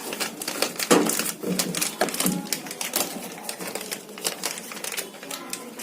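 Rapid, irregular small clicks and rattles of the washing machine's wiring being bundled and tied up with a plastic cable tie.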